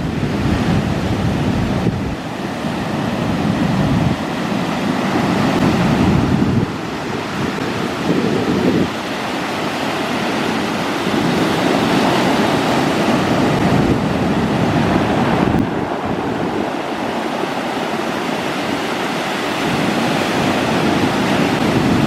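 Steady rush of surf at a river mouth, with wind gusting on the camera microphone in low rumbling swells every few seconds.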